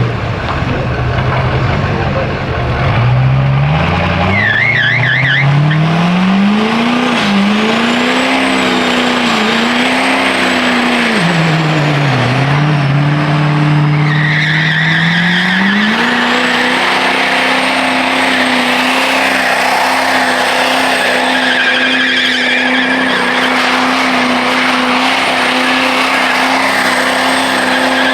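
Truck engine revving hard in a burnout, its revs climbing, wavering, dipping and then held high, with tyres squealing: a brief squeal about five seconds in and a steady warbling squeal through the second half.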